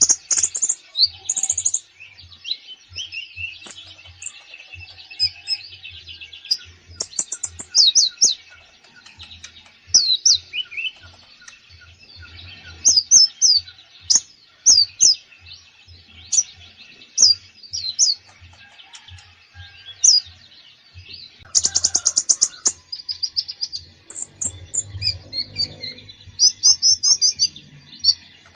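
Olive-backed sunbird (kolibri ninja) singing busily: a varied, almost unbroken string of high chirps, quick sweeping notes and fast trills, packed with imitated phrases from other birds' songs.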